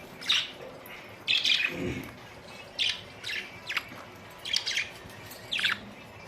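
Pet budgerigars chirping: a string of short, high chirps and chatters in separate bursts, about seven of them.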